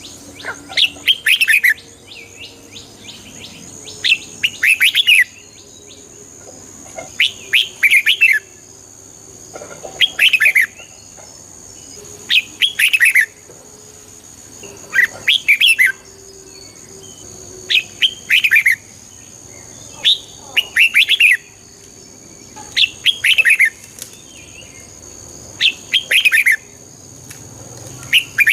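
Red-whiskered bulbul singing short song phrases, one about every two and a half seconds, about eleven in all. A faint steady high tone runs underneath.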